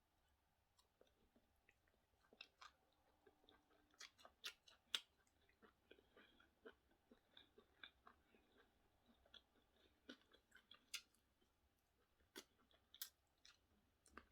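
Faint close-up chewing: a person eating plantain and fish, with small wet mouth clicks and smacks coming irregularly.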